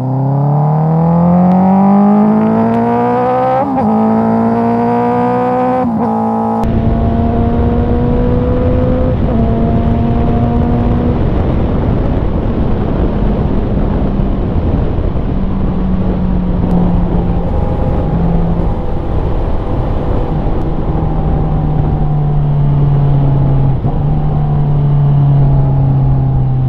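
Honda CBR650R's inline-four engine through an Akrapovic exhaust, accelerating with the pitch climbing and two quick upshifts in the first six seconds. It then holds a steady cruise with the pitch slowly falling, under a strong steady rush of wind and road noise.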